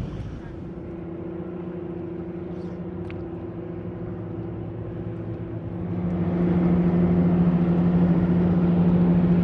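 A steady engine hum that grows louder about six seconds in.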